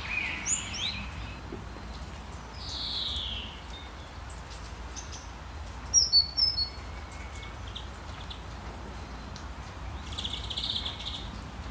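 Wild birds calling in forest: a falling whistled call about three seconds in, a quick cluster of loud, sharp, high chirps about six seconds in, and a trilled call near the end, over a faint steady low rumble.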